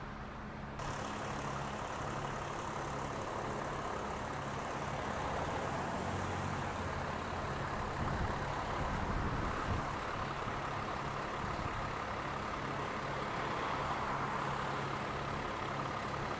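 A motor vehicle engine idling steadily, with a constant low hum.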